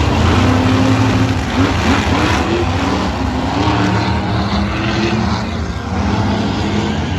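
Monster truck engine running loud with a deep rumble, the revs rising and falling a few times about two to four seconds in.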